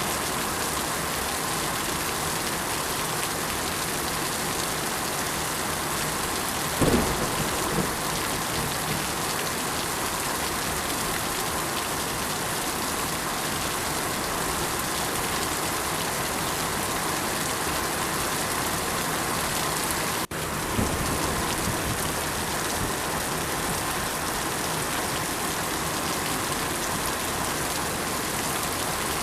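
Steady rain falling, with two short low rumbles of thunder, one about seven seconds in and one about twenty-one seconds in. The sound drops out for a moment just before the second rumble.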